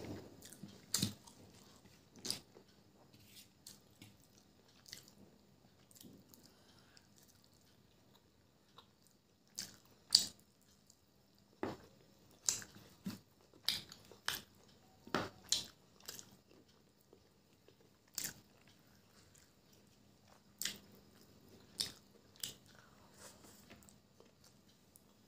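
Close-miked eating of chicken biryani by hand: wet chewing with sharp mouth clicks and lip smacks, irregular, about one every second or so with quiet gaps between.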